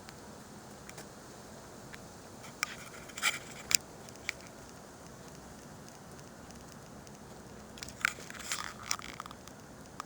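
Footsteps crackling and crunching through dry leaves and twigs on a woodland trail, in two short spells of sharp snaps, about three seconds in and again about eight seconds in.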